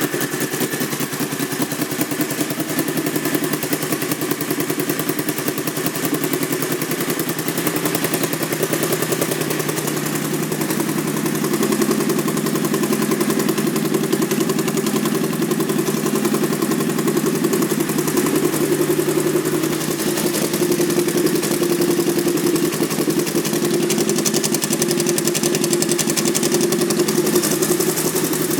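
2001 Honda VT1100C Sabre's V-twin engine idling steadily just after start-up. Its exhaust sounds almost as if the baffles may have been removed, though the pipes look stock.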